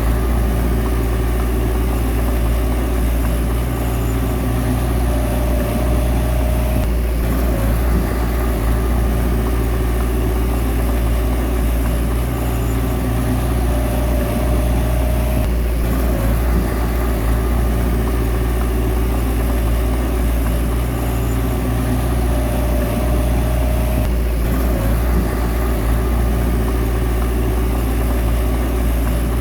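A Komatsu bulldozer's diesel engine runs steadily under work. Roughly every nine seconds a short whine rises over it and then breaks off.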